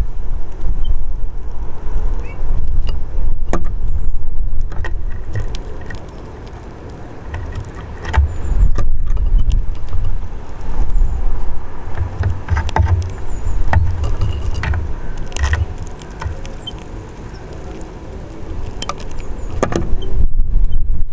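Wind buffeting the microphone in gusts, easing twice, with scattered sharp taps and clicks of birds at a balcony bird house and a few faint high chirps.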